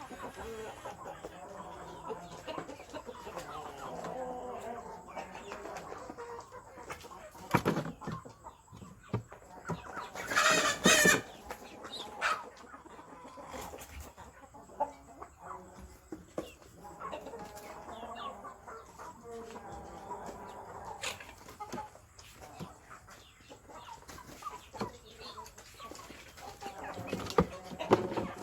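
Chickens clucking on and off in short, irregular calls, with one loud, harsh call lasting about a second, about ten seconds in.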